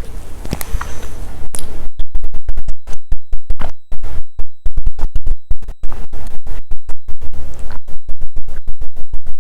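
Loud, rapid crackling and popping with the sound repeatedly cutting out completely, starting about two seconds in: the signal of a badly plugged-in microphone breaking up.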